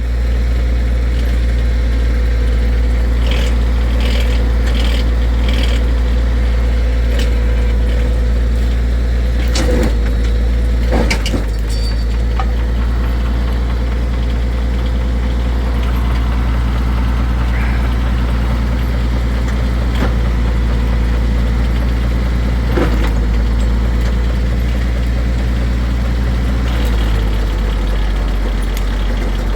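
International 1066 tractor engine running steadily while driving a Uniforest logging winch that pulls a log, with a few sharp knocks partway through. The engine note drops slightly near the end.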